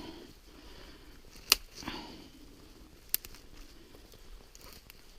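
Dry dead spruce twigs being snapped off by hand: a sharp crack about a second and a half in and a smaller one about three seconds in, with fainter crackling and rustling of the branches between.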